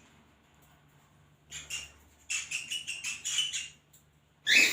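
Pet cockatiels and budgies chirping: a run of quick, high, squeaky chirps about two seconds in, then one sharper, louder call near the end.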